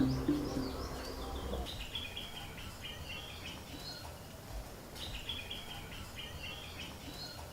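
Small songbird chirping outdoors: two runs of rapid, high chirps a couple of seconds apart over faint background noise.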